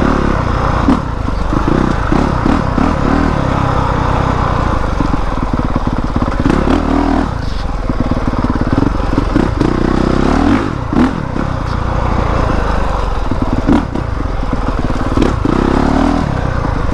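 Honda CRF450R dirt bike's single-cylinder four-stroke engine revving up and down under throttle while being ridden on a trail, with brief lifts off the throttle.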